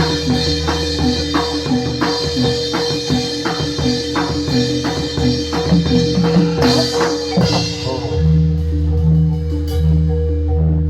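Javanese gamelan music for a jathilan dance, played loud over a sound system: metallophones ring steady notes over a driving drum beat of about three strokes a second with bright clashing on top. About three-quarters of the way through, the drumming and clashing drop out, leaving low repeated notes.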